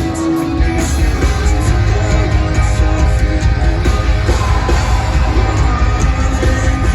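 Live rock band playing loud over a venue PA, with heavy bass and guitars and a vocalist singing or yelling, captured on a phone's microphone in the crowd.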